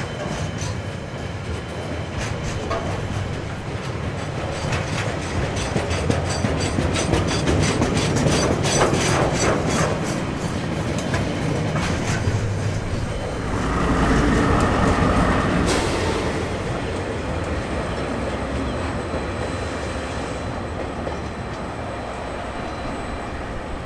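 Train passing, its wheels clacking quickly over rail joints, swelling to a louder rumble a little past the middle and then fading away.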